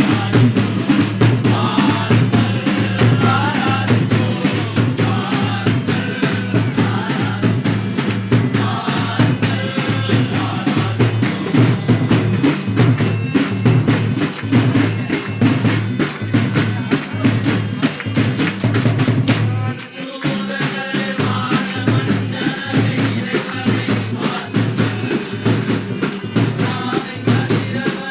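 Group of carol singers singing a Tamil Christmas song to a steady beat of drums and jingling percussion, with a brief break about twenty seconds in.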